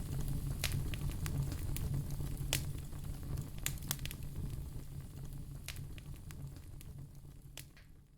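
Wood fire in a fireplace crackling, with scattered sharp pops over a low steady rumble of flames, fading out gradually toward the end.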